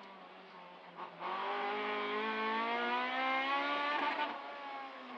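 Honda Civic rally car's engine heard from inside the cabin: low and quiet for about a second, then accelerating hard with the revs climbing steadily for about three seconds, before the throttle comes off about four seconds in and the note drops back.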